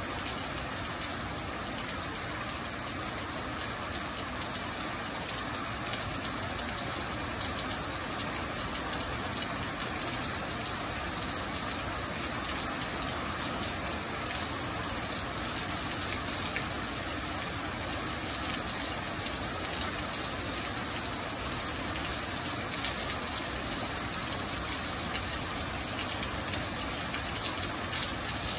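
Steady rain falling and splashing on a porch and pavement, with a few sharper drop ticks.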